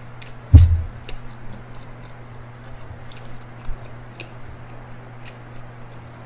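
Close-miked chewing of crispy fried chicken: scattered small crunchy clicks, with a dull thump about half a second in, over a low steady hum.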